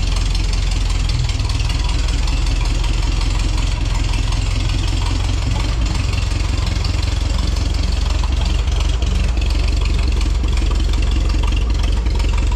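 Old farm tractor's carbureted engine idling steadily.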